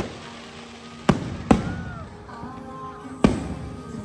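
Aerial fireworks shells bursting in four sharp bangs, one right at the start, two close together about a second in, and one past the three-second mark, each trailing off in a short echo. Music plays underneath throughout.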